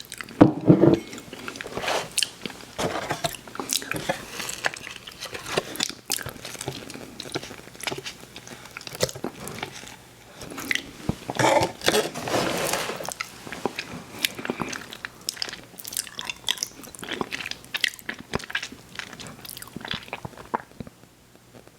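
Close-miked eating sounds: bites and chewing with crunchy mouth clicks, loudest about half a second in and again around eleven to thirteen seconds in, dying away near the end.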